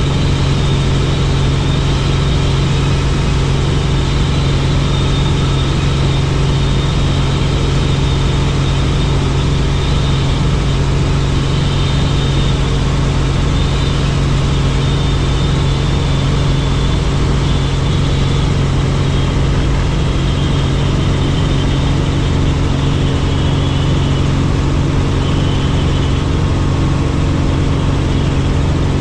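Helicopter in flight: a loud, steady engine-and-rotor drone with a thin high whine above it, unchanging throughout.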